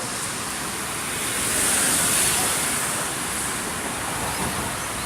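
Outdoor street ambience: a steady hum of distant traffic, with a high, hissing cicada buzz that swells and fades about two seconds in.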